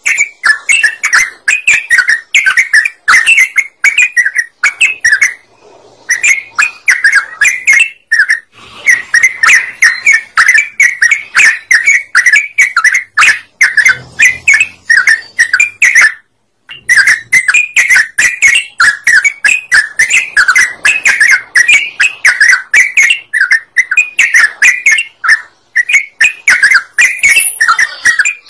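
Yellow-vented bulbul (trucukan) singing without pause in rapid, bubbling chirped phrases, played as a lure song to draw other birds. The song breaks off briefly three times, about five, eight and sixteen seconds in.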